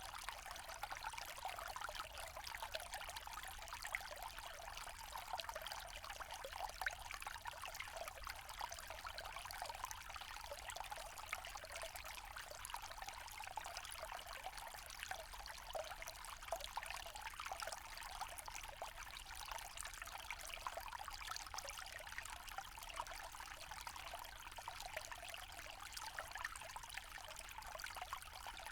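Small forest stream trickling and splashing steadily over stones, a bright, even babble with no pauses.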